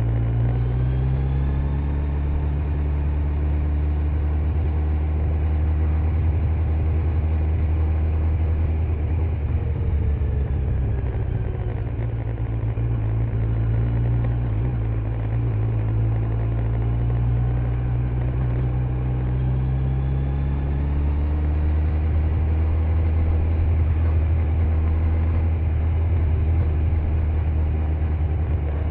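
Kawasaki Z900's inline-four engine with stock exhaust, under way on the road. Its pitch rises in the first couple of seconds as it accelerates, falls about ten seconds in as it eases off, and climbs again about twenty seconds in.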